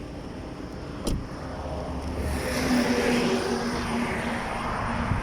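Chrysler 300 SRT's V8 engine under way with the top down, a single sharp knock about a second in, then the engine note and the rush of wind getting louder from about two seconds in as the car picks up speed.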